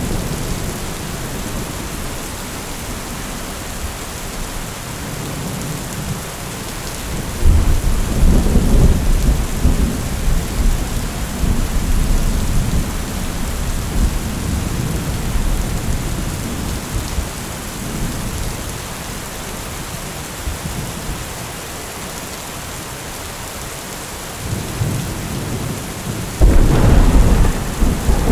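Heavy rain falling steadily, with two peals of thunder: a long rolling rumble that starts about a quarter of the way in and tails off over several seconds, and a sudden loud clap near the end.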